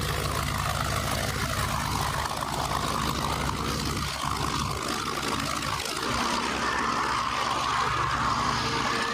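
F-22 Raptor's twin Pratt & Whitney F119 turbofan engines running: steady jet-engine noise with a low hum underneath.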